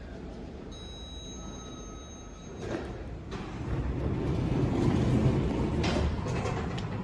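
2004 Otis lift's sliding doors opening: a faint high tone for about two seconds, then a couple of clunks as the doors start and a rumble of the door mechanism that grows louder and settles near the end.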